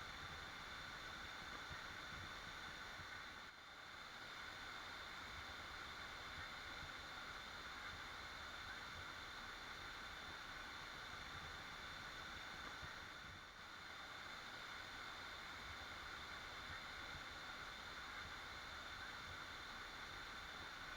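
Waterfall: a steady, even rush of falling water that dips briefly twice.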